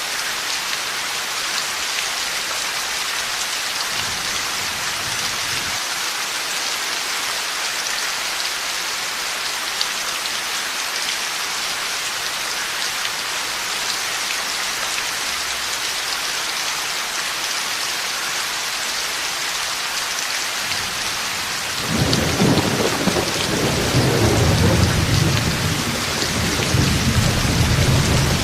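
Heavy, steady rain hissing, with a long low rumble of thunder rolling in about three quarters of the way through and continuing to the end.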